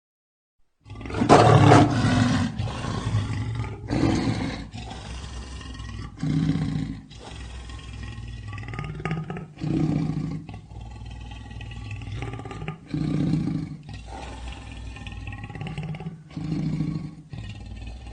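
Lion roaring: a loud roar begins about a second in, followed by a series of shorter, quieter roars roughly every three seconds.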